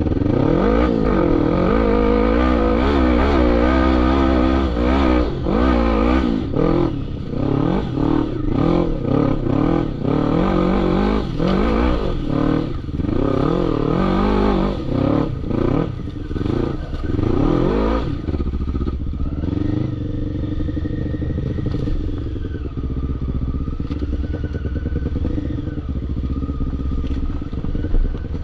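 ATV engine revving hard on a steep sandy hill climb, its pitch rising and falling over and over as the throttle is worked. About 18 seconds in, it settles into a steadier, lower running sound.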